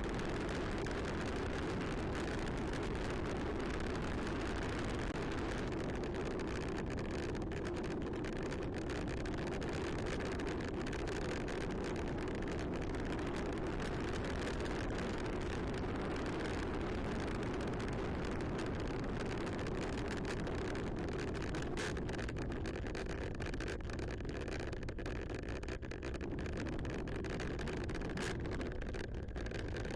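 Steady rushing noise of a bicycle being ridden, with wind on the microphone and the rumble of the tyres rolling over the trail.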